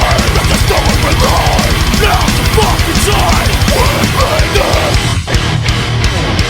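Hardcore band playing a heavy, aggressive song with fast, dense drumming, dropping out briefly a little after five seconds.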